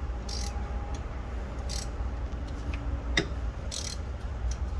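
A few scattered clicks of a ratchet wrench on a socket extension, turning out a tight spark plug. There is a sharper click about three seconds in, a few short hissy rustles, and a steady low rumble underneath.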